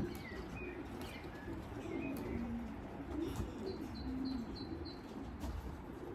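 Racing pigeons cooing at the loft, low wavering coos overlapping throughout. A small bird chirps a quick run of high notes from about four to five seconds in.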